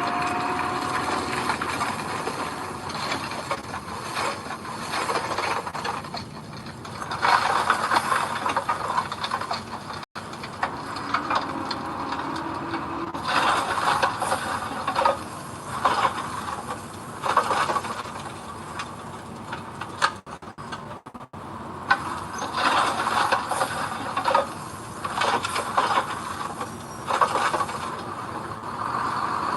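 Bulldozer at work: steel tracks rattling and scraping in uneven bursts over a running engine, cut off briefly twice.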